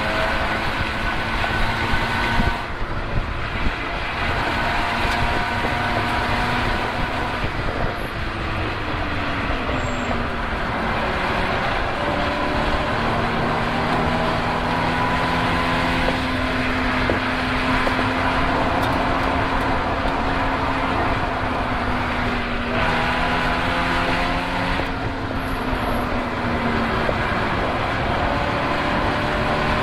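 Car engine being driven hard around a race track, its note rising and falling as it accelerates, brakes and changes gear, over a steady rush of noise.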